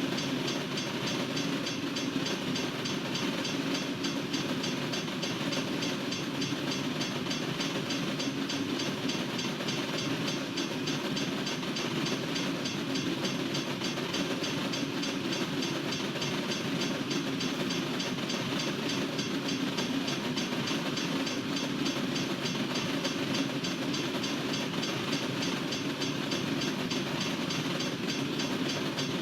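Long freight train rolling steadily past, its cars' steel wheels running over the rails in an even, unbroken rumble and hiss.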